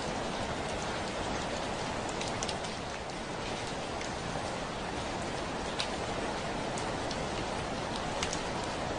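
Steady heavy rain, with individual drops now and then tapping sharply against a window pane.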